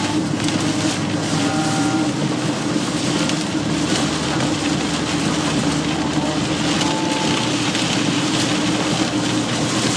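Heavy rain hitting a vehicle in a steady, dense hiss, over a constant low hum from the vehicle.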